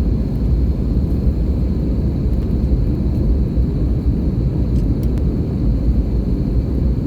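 Steady cabin noise inside an Airbus A321neo airliner: an even low rumble of airflow and its CFM LEAP-1A engines, with a faint steady high tone over it.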